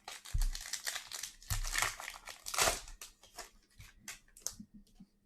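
Plastic trading-card pack wrapper being crinkled and torn open, a dense run of crackles that thins out near the end.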